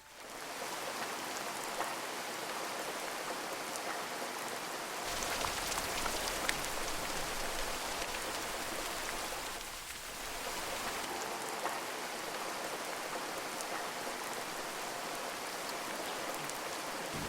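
Heavy rain falling steadily, an even hiss with scattered drop ticks. It dips briefly about ten seconds in, then carries on.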